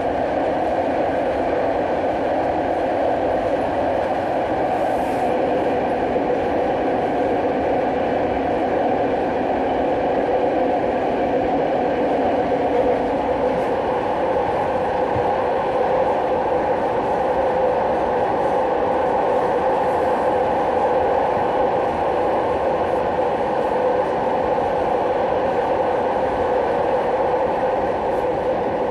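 A rail transit car running steadily, heard from inside the carriage: an even, unbroken hum and rumble with no stops or clatter.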